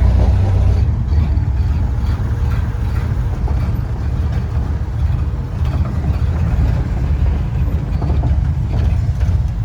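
1931 Ford Model A pickup's four-cylinder flathead engine running steady and low-pitched. It is still running a little rough, which the owner puts down to the distributor points needing adjustment.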